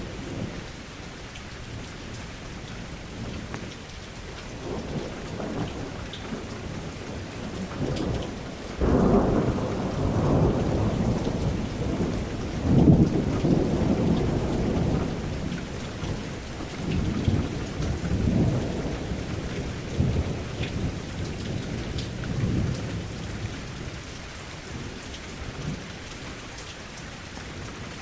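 Steady rain falling with a long roll of thunder: a low rumble that breaks in about a third of the way through, is loudest near the middle, and rolls on in waves before dying back to the rain.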